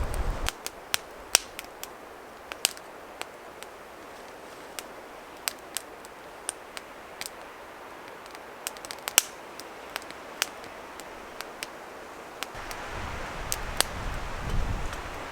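Small wood fire crackling in a bushbox stove, with irregular sharp snaps and pops. Wind gusts on the microphone at the very start and again near the end.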